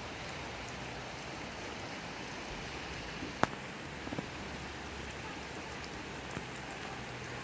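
Steady rain falling as an even hiss, with one sharp tick about three and a half seconds in and a few fainter taps after it.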